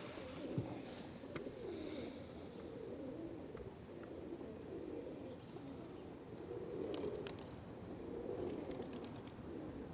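A flock of pigeons cooing continuously, overlapping calls from many birds, with occasional light taps and clicks.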